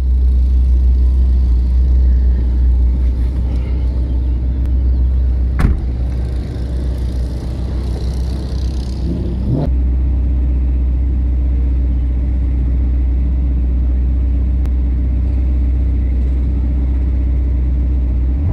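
Ferrari Portofino's V8 idling with a low, steady rumble, heard from inside the open car; a single sharp click about six seconds in.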